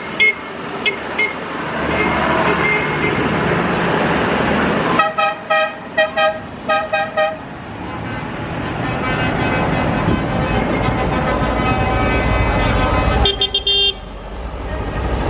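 Vehicle horns tooting: a quick run of about five short blasts about five seconds in and another short blast near the end, over the running engines of passing trucks and tractors, which grow louder in the second half.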